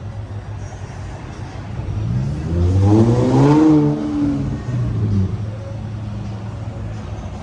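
Car engine idling through a newly modified exhaust, revved once about two seconds in, its pitch rising and then falling back to idle by about five seconds.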